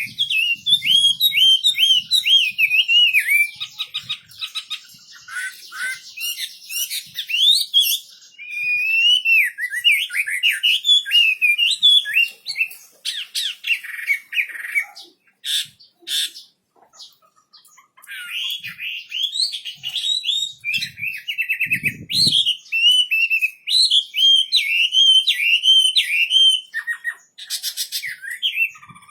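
A wambi songbird singing in long, fast warbling phrases of quickly rising and falling notes, pausing for a second or two about halfway through before starting up again. A few sharp clicks come between the phrases.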